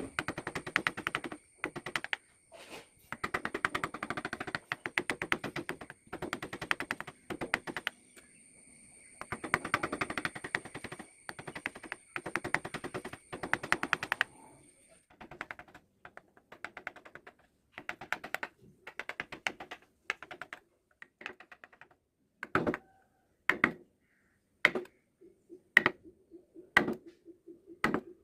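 Carving chisel being tapped into wood: runs of rapid light taps in bursts, changing about halfway through to single sharper strikes roughly once a second.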